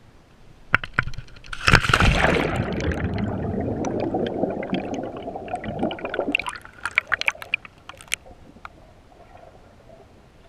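Water splashing hard just before two seconds in, followed by several seconds of churning and gurgling water, then a scatter of small clicks and drips.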